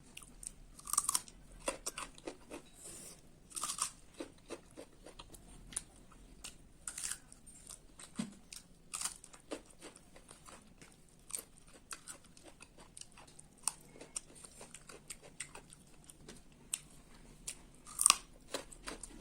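Close-miked eating sounds: irregular crunching, chewing and mouth clicks, with a few louder crunchy bites scattered through.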